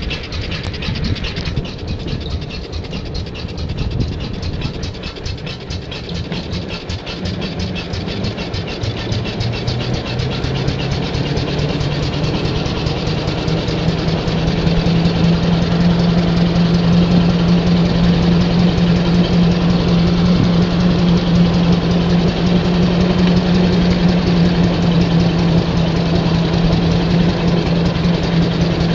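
Engine of a 1911 IHC Auto Wagon high-wheel truck running under way, rising in speed and loudness through the first half, then holding a steady speed with a steady hum.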